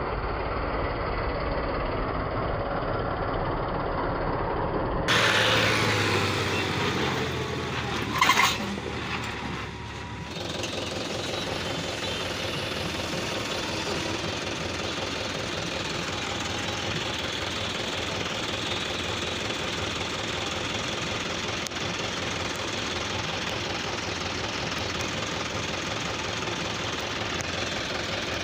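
Diesel farm tractor engine running with a knocking clatter. Its sound changes abruptly about five and ten seconds in, with a brief loud burst near eight seconds.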